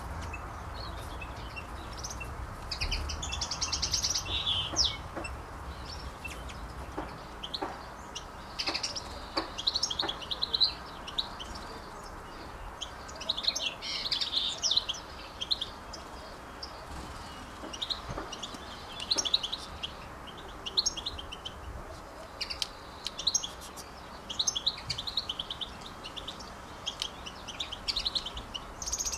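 Small birds chirping and singing, with many short high calls and trills coming in quick clusters throughout, over a steady low rumble.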